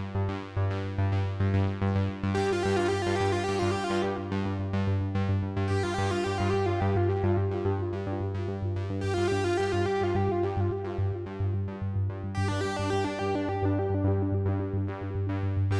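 Two 2-XM analog synthesizer voices playing: a steady low bass drone under a fast single-note arpeggio of rapid repeated notes, with keyboard notes layered over it. Brighter, buzzier passages swell in and drop out about every three to four seconds.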